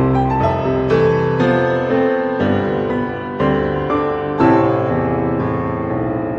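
Soft piano music, with notes and chords struck about once or twice a second and left to ring.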